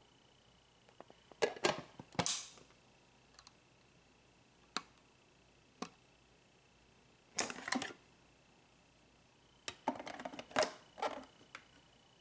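Handling noise from the grinder and its packaging: scattered single clicks and a few short bursts of clattering and rustling, loudest near the start, in the middle and near the end.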